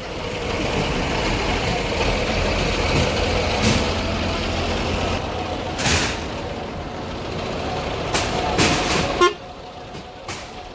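Roadside traffic: a motor vehicle's engine running close by, with a few sharp knocks in the second half; the sound drops off suddenly a little past nine seconds in.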